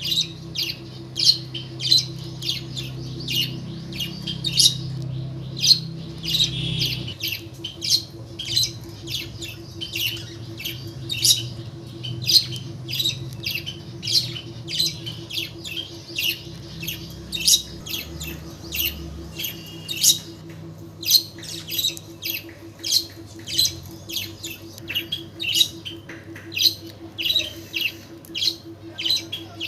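Pet bird calling in a steady series of short, high squawks and chirps, roughly two a second.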